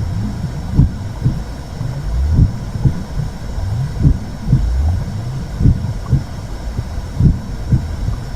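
Womb sound for soothing a baby: a steady low rumbling whoosh with a slow heartbeat of double thumps, the two beats about half a second apart and a new pair every second and a half or so.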